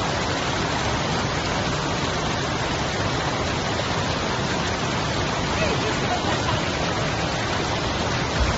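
Steady rushing roar of a waterfall, an even wash of water noise, with a brief low bump near the end.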